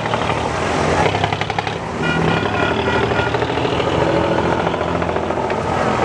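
Diesel engine of an abra water taxi running with a fast, steady chugging. About two seconds in, a brief high steady tone sounds over it for a second or so.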